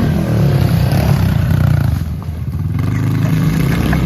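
Dirt bike engines revving hard and easing off as riders race each other, dropping back briefly a little past two seconds before picking up again.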